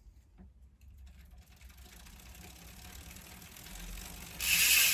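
DT Swiss rear hub ratchet freewheeling, its pawl engagement clicking so fast that it merges into a buzzing whir. The buzz builds gradually and becomes much louder about four and a half seconds in.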